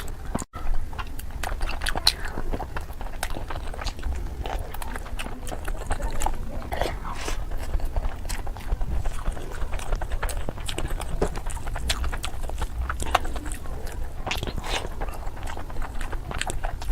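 Close-miked eating: chewing with irregular wet smacks and clicks of the mouth on rice and mutton curry, over a steady low hum.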